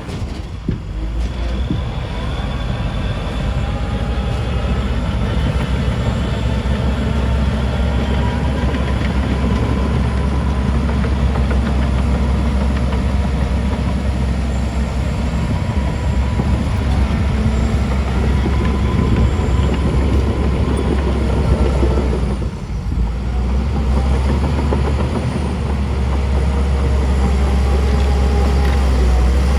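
Heavy diesel engine of earthmoving machinery, a bulldozer or dump truck, running steadily with a deep, continuous sound. The sound briefly drops about three-quarters of the way through.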